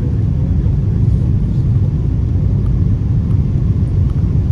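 Steady low rumble of engine and airflow noise inside the cabin of an Airbus A330 descending on approach.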